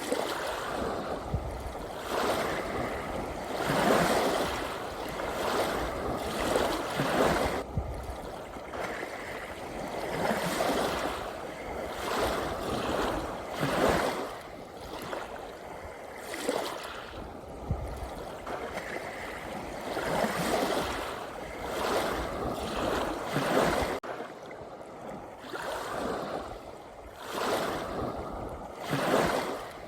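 Gentle sea waves washing in and drawing back, each wave a swell of rushing water noise every two to four seconds.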